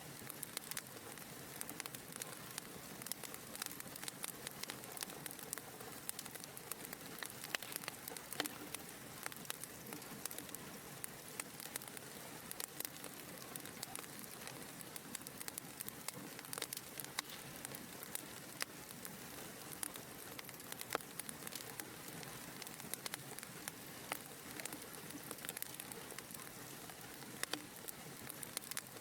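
Wood fire in a fireplace crackling: a steady soft hiss of flames with frequent sharp irregular pops and snaps.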